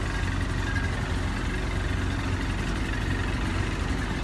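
Boat engine running steadily at low speed, a constant low hum with a fast even pulse.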